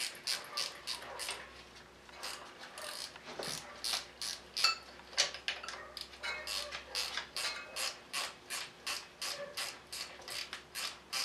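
Ratcheting box-end wrench clicking steadily, about three or four clicks a second, as it unscrews the radiator fan's spindle.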